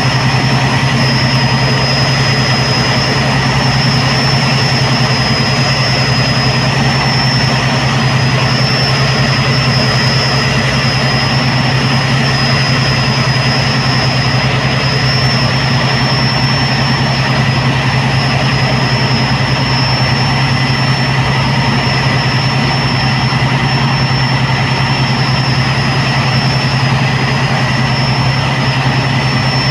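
Tugboat's diesel engine running steadily, a constant low drone with a thin high whine over it that does not change.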